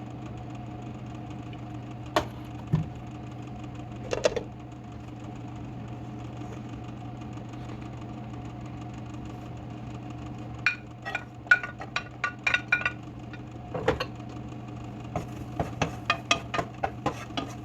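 Steady low hum of a kitchen appliance, with a few single knocks and then quick runs of clicks and clinks from cooking in a pan on the stove.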